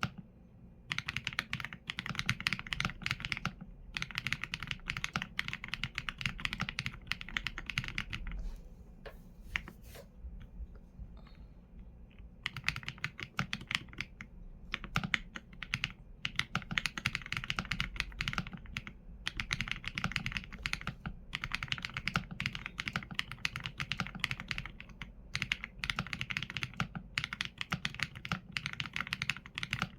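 Typing on a Qsenn A75 mechanical keyboard with Leobog Graywood V4 linear switches and PBT keycaps: quick runs of keystrokes broken by short pauses, with a lull of a few seconds near the middle where only a few keys are struck.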